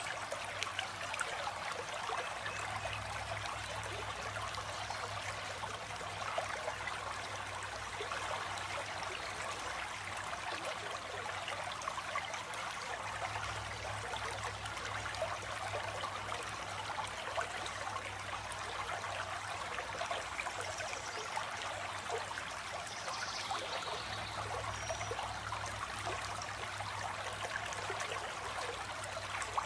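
Water of a stream flowing and trickling, a steady, even rush. A few faint bird calls sound high above it in the second half.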